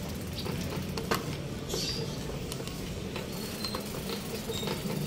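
Urban street ambience: a steady low rumble of distant traffic with scattered light clicks and taps, and a brief high chirp about two seconds in.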